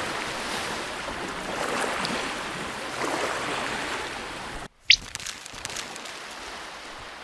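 Steady rushing noise like surf or wind, broken by a sudden cut about two-thirds of the way through, followed by a brief high tone sliding quickly downward; the rushing resumes quieter afterwards.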